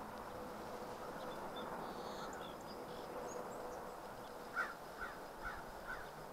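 A bird calls four times in quick succession, about half a second apart, the first call the loudest, over a steady outdoor background hiss.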